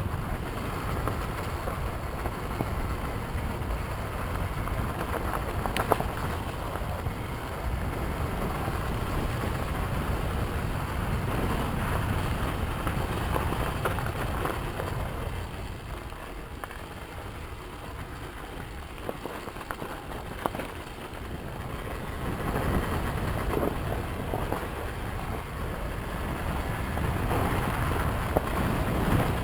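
Yamaha YZ250FX four-stroke dirt bike running along a trail, buried in wind rushing over the microphone. It eases off for several seconds around the middle, with a few sharp knocks scattered through.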